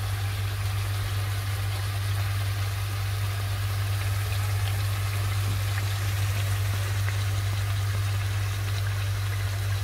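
Chicken pieces sizzling with faint crackles in a steel pan over a low gas flame, under a loud, steady low hum.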